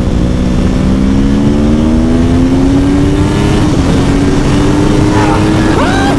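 Motorcycle engine running under load, its pitch climbing slowly and steadily, with wind rumble on the microphone. Near the end the engine note swings quickly up and down.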